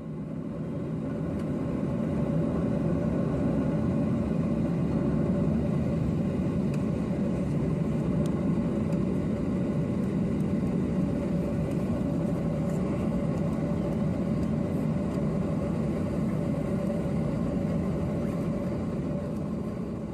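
Steady engine-like rumble with a faint constant tone, fading in over the first couple of seconds and fading out near the end.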